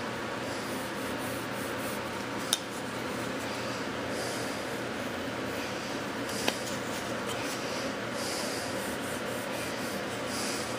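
Hand rubbing strokes on a wooden bulkhead as it is shaped, a scraping like filing or sanding wood, with two sharp clicks, one about two and a half seconds in and one about six and a half.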